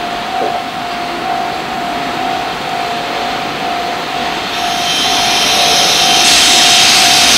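JR Freight EF210 electric locomotive with its container train approaching. Its rushing noise grows louder and harsher over the last few seconds, over a steady high whine.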